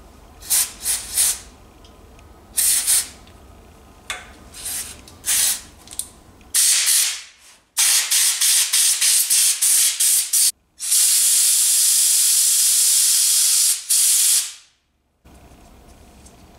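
Aerosol carburettor cleaner hissing onto a Motobecane moped's ignition points to flush dirt out from between them. Short bursts come first, then a quick run of spurts, then a long steady blast of about four seconds near the end.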